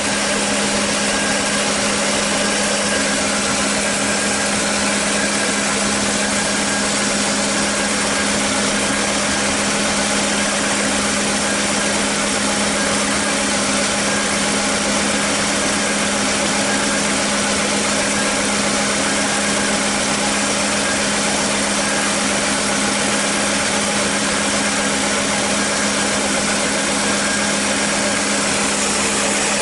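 1989 Mercedes-Benz 420SEL's 4.2-litre V8 idling steadily, with an even hum that holds the same pitch and level throughout.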